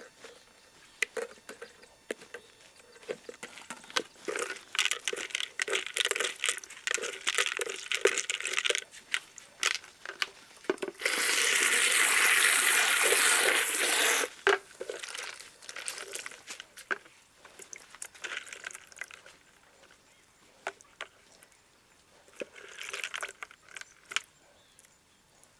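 Snake gourd seeds being rinsed by hand in water to strip off the pulp: wet handling sounds and small clicks, with water pouring steadily for about three seconds about eleven seconds in.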